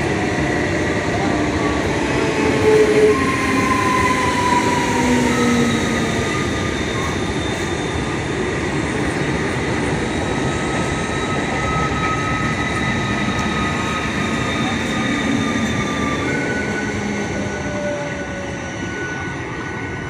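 Train running on the rails at a station: a steady rumble of wheels with several high metallic squeals from wheels or brakes that come and go at different pitches. It eases off a little near the end.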